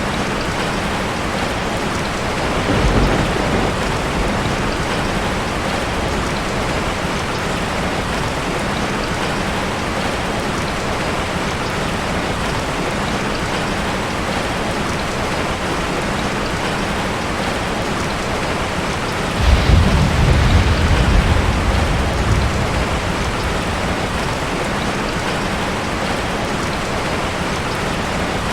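Steady rain falling, an even hiss throughout, with two low rolls of thunder: a short one about three seconds in and a longer, louder one near twenty seconds in.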